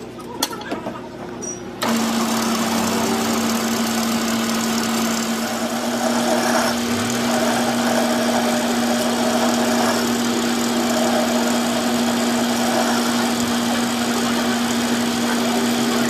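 A few knocks, then about two seconds in a machine starts running abruptly and keeps going steadily with a constant hum.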